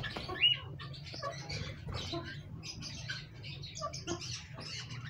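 Pet birds chirping in a cage, many short high calls overlapping, with one louder call about half a second in, over a low steady hum.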